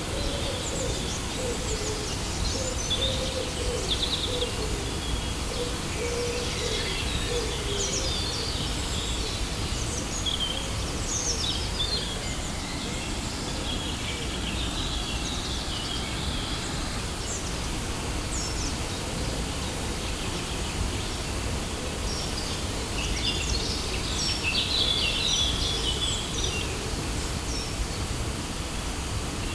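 Steady rush of a waterfall with birds chirping over it, in bouts in the first dozen seconds and again near the end. A lower, wavering bird call sounds through the first eight seconds or so.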